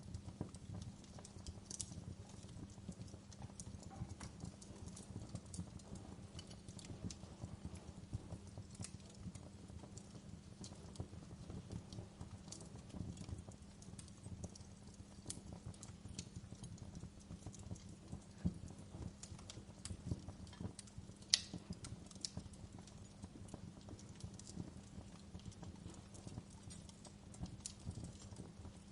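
Wood fire crackling in a fireplace: a steady low rumble of burning with frequent small crackles and pops, and one sharper pop about three quarters of the way through.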